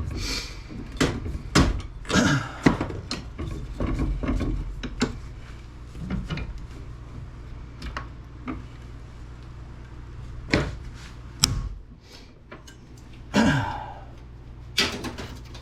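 Hand tools and plastic parts clicking, knocking and scraping as a small plastic hair appliance is pried apart for scrap, with a few sharper knocks near the end.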